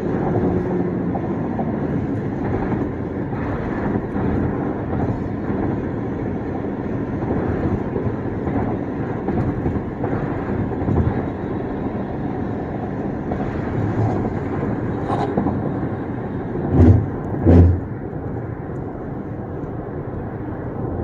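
Car driving at road speed: steady tyre and engine noise, with two loud thumps less than a second apart near the end.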